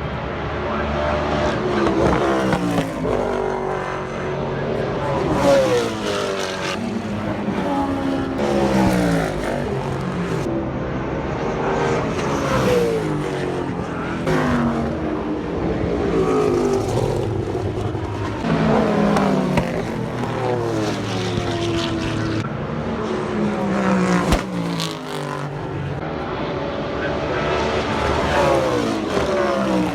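Muscle cars racing at speed, their engines sweeping down in pitch again and again as several cars go by or brake, one after another.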